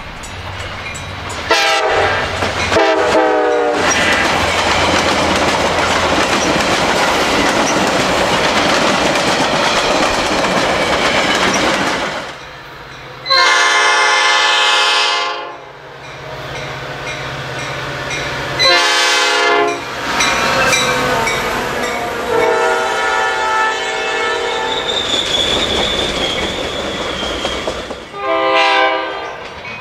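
Metra commuter trains led by diesel locomotives: a multi-chime air horn sounding several blasts, and between them a train running past with engine rumble and clattering wheels over the rails. Near the end a thin high whine is heard briefly.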